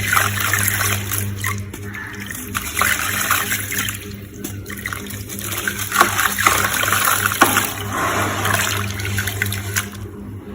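Gritty sand crumbling into water: a crackling, fizzing hiss with small clicks and splashes that comes in uneven surges, over a steady low hum.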